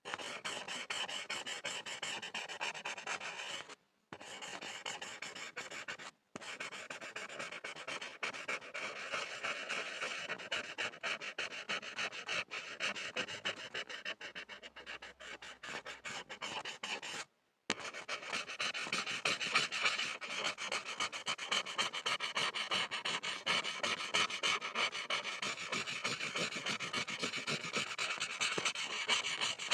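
Pencil scribbling on a board: a continuous dry scratching of lead over the surface, stopping briefly three times as the pencil lifts off.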